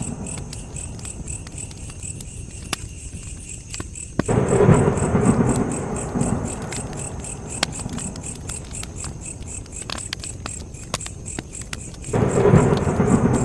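Campfire burning, with sharp scattered crackles and pops over a steady, fast, high-pitched chirping. Twice, about four seconds in and again near the end, a low rumble starts suddenly and fades over a couple of seconds.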